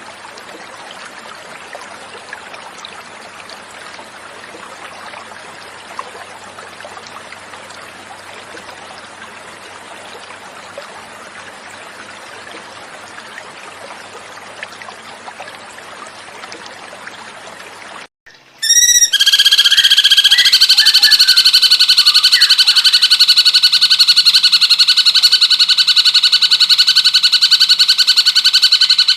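Gently running water trickles for about eighteen seconds. Then, after a brief gap, a cucak cungkok starts a loud, fast, steady trill.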